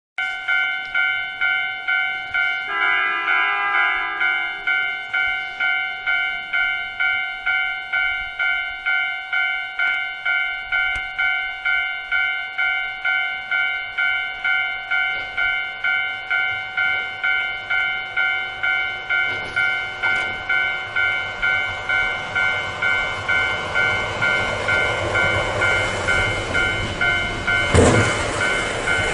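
A railway level-crossing signal ringing in even pulses, about one and a half a second, with a short horn blast about three seconds in. From about twenty seconds a snow-clearing train's rumble grows louder, with a sharp bang near the end.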